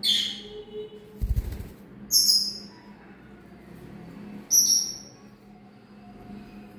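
A parrot giving three short, shrill calls about two seconds apart, the first sliding down in pitch. A brief rattling noise comes between the first two calls.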